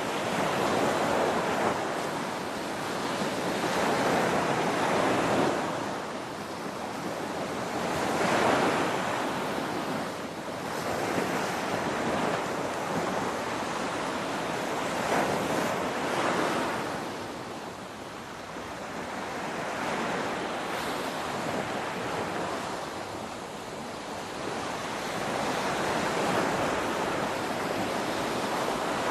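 Ocean waves breaking on a shore, a continuous rushing wash that swells and ebbs every few seconds.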